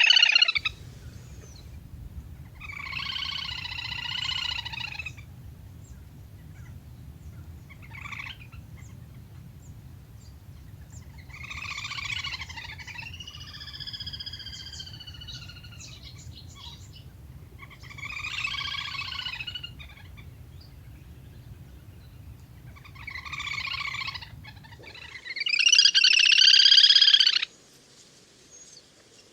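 Repeated calls of the waterbird known in Vietnamese as le le hôi, played from a lure recording. The calls come in bouts of a second or two every few seconds, several wavering tones at once, and the last bout is the loudest. A low steady hum runs beneath the calls and stops near the end.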